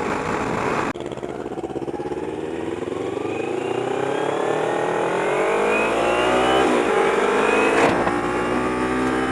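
Kawasaki Ninja 250R's parallel-twin engine accelerating, its pitch rising steadily over several seconds from about a second in, with the rush of riding noise underneath.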